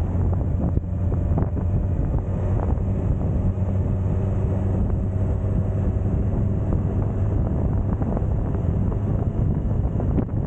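Suzuki GSX1250FA motorcycle's inline-four engine running at a steady pitch while riding, with wind rushing over the microphone.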